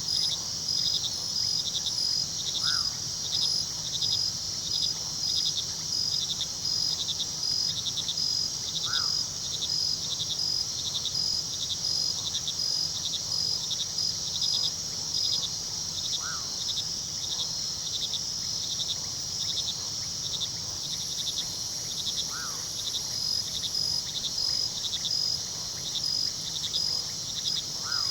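Crickets chirping steadily in a dense, rhythmic chorus over a low, steady rush of river water. A short single call sounds about every six seconds, five times in all.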